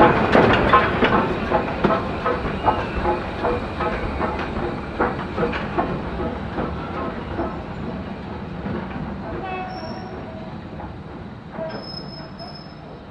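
Steam-hauled train rolling past and moving away, its wheels clattering over the rail joints, fading steadily.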